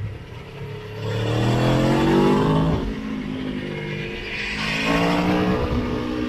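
Motorcycle engine accelerating hard under load: the pitch climbs, drops at an upshift, climbs again and drops at a second upshift, over wind rush.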